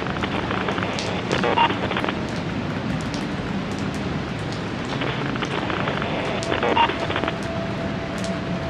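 Steady rain falling, with a busier spell of drops and crackles twice, about five seconds apart.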